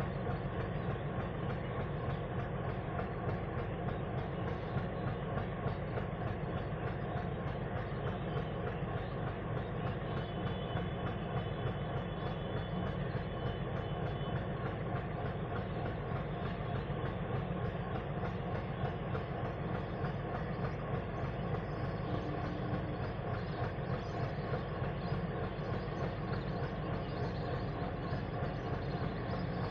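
WDM-3D diesel-electric locomotive's ALCO 251 engine running steadily, a low, even drone with no change in pitch.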